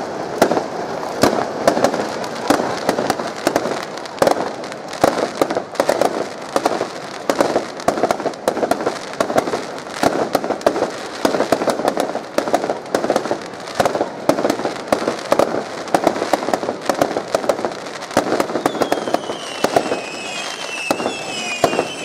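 Fireworks going off in rapid succession: a dense stream of sharp bangs and crackles, with shrill whistles sliding in pitch near the end.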